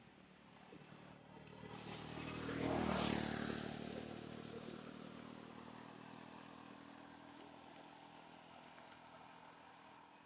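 A motor vehicle's engine passing by. It grows louder to a peak about three seconds in, then slowly fades away.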